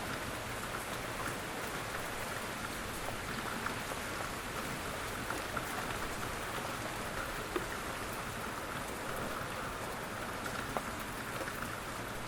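Steady, gentle rain falling on a surface, with scattered individual drops ticking out above the even patter.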